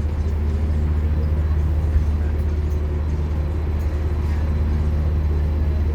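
Scania K230UB Omnilink bus's diesel engine running at a steady pitch, a loud even low hum, with a small knock about two seconds in.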